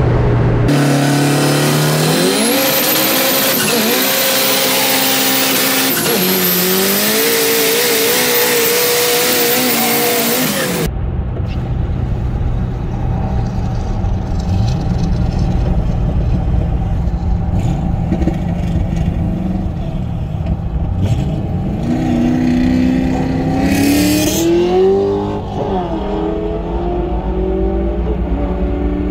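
High-powered car engine at full throttle, its pitch climbing and dropping at each of three quick gear shifts, under a loud rush of wind. After a sudden cut, an engine rumbles low and then pulls up through another shift.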